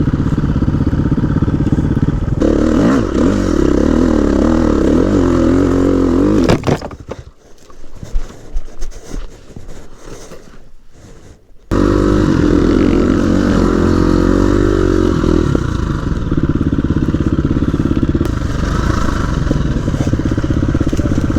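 Dirt bike engine revving up and down under throttle on a trail. About six seconds in it drops away for some five seconds, leaving quieter knocks and scrapes, then the engine sound cuts abruptly back in, running and revving.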